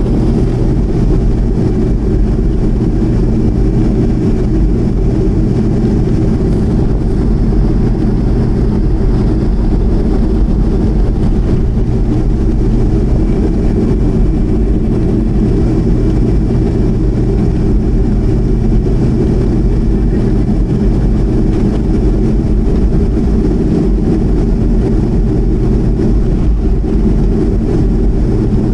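Boeing 737-200's Pratt & Whitney JT8D turbofan engines running steadily: a loud, even low drone with a faint high whine above it, unchanged throughout.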